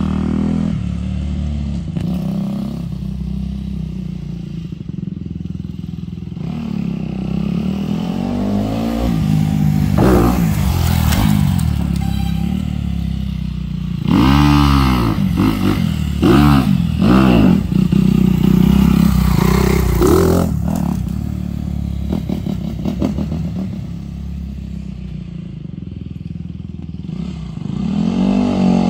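Dirt bike engine running, revving up and backing off several times, its pitch rising and falling, busiest around the middle.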